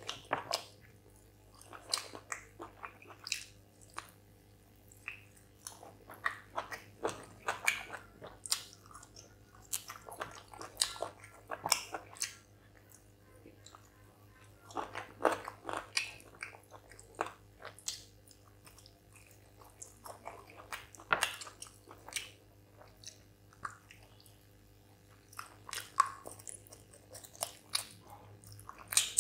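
Close-miked chewing and biting on chicken curry meat pulled off the bone, in irregular bursts of sharp mouth clicks with short pauses between.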